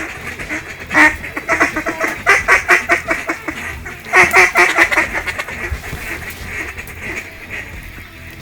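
Duck quacking in quick runs of short, repeated notes, loudest about a second in and again around four seconds in, then fainter.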